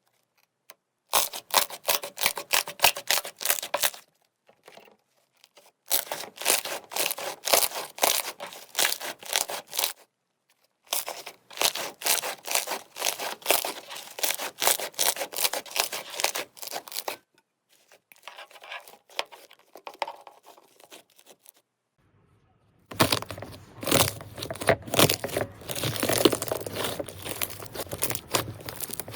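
Slime being squeezed and stretched by hand, giving dense crackling, popping clicks in several separate bouts with short silences between them. The last bout is busier and fuller than the others.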